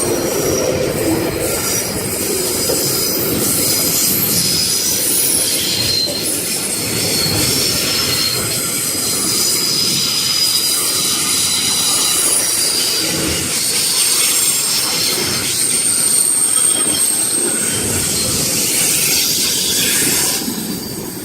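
Freight train wagons rolling past with very bad wheel squeal: several high, shifting squeal tones over a low rumble of the wheels on the rails, fading near the end.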